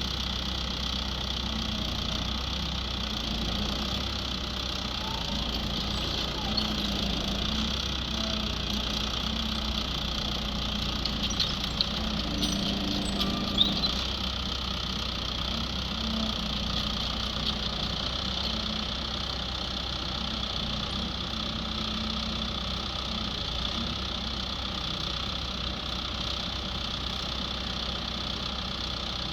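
Skid steer loader engine running steadily, with a few brief knocks about halfway through.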